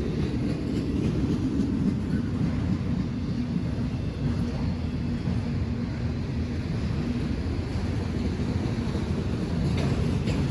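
A train rolling by with a steady low rumble.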